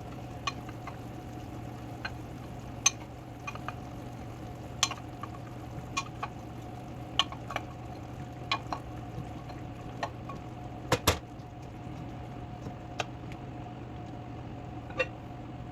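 Chayote being added to a pot of boiling chicken broth: scattered sharp clicks and knocks against the pot, a close pair about eleven seconds in, over a steady hum.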